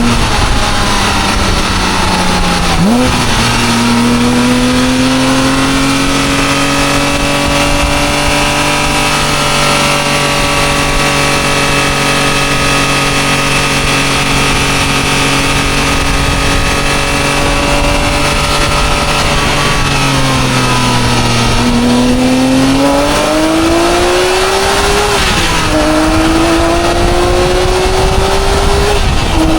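Porsche 997 GT3's flat-six engine revving up sharply, then held at a steady high engine speed for a long stretch, the kind of sustained running that makes its exhaust headers glow. Near the end the revs drop and climb again twice.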